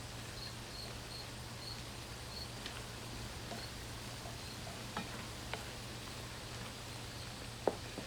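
Faint steady sizzling of food cooking in a pan over a low hum, with a faint high chirp repeating evenly in the first few seconds and a few light utensil clicks about five seconds in and near the end.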